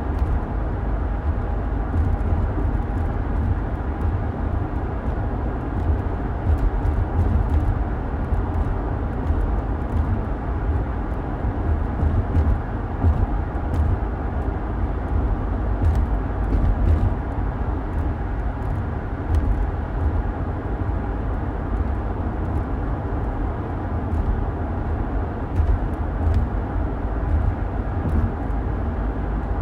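Car driving along: a steady road and engine rumble, heaviest in the deep low end, with a few faint ticks.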